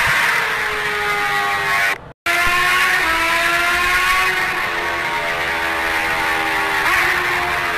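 Motorcycle engine running while being ridden, its pitch rising and falling gently with speed. The sound cuts out completely for a moment about two seconds in.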